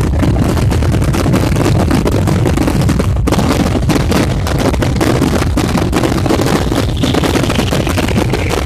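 Fireworks going off in rapid succession: a continuous barrage of booms and crackling over a low rumble, with a brief let-up about three seconds in.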